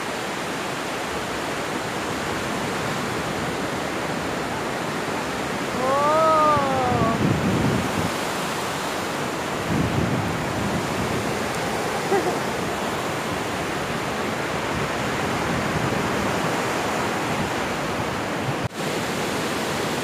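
Sea surf: waves breaking and washing on the shore in a steady rush, with a short rising-then-falling call about six seconds in.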